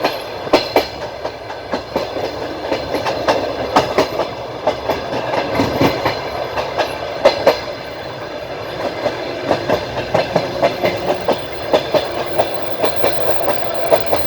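Passenger train wheels clacking over rail joints while the train runs along at speed, heard from inside the carriage: a steady rolling rumble with frequent sharp clacks at uneven spacing.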